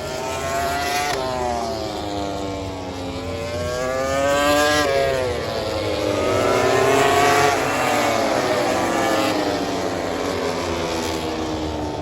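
Several racing motorcycles passing at high revs, one after another, their engine notes rising and then dropping sharply as each goes by and shifts gear.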